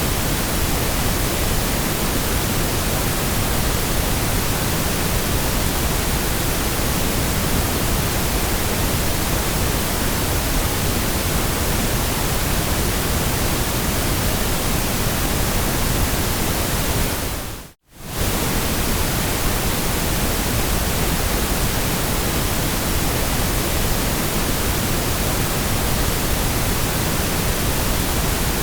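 Steady synthetic white-noise hiss, even across all pitches. About eighteen seconds in it fades out to near silence and straight back in, within about half a second.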